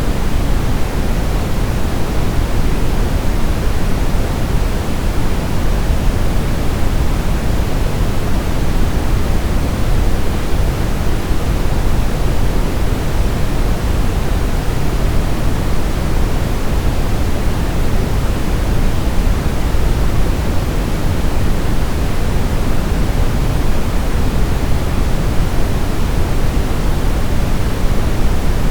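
Brown noise: a steady, deep, even rushing hiss, strongest in the bass and rolling off toward the treble, with no changes.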